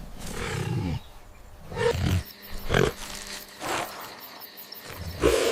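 A large wild animal growling, with a low growl at first and then several separate short growls and grunts, the loudest near the end.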